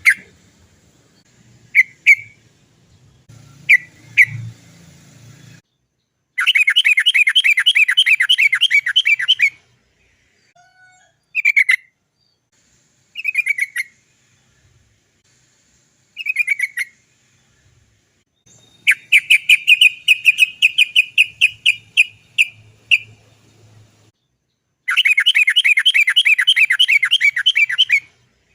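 Yellow-vented bulbul (trucukan) calling. A few short sharp notes are followed by three long, rapid chattering rolls of about three seconds each, the 'cok cok cok' roll. The rolls come about six seconds in, about nineteen seconds in and about twenty-five seconds in, with short single phrases between them.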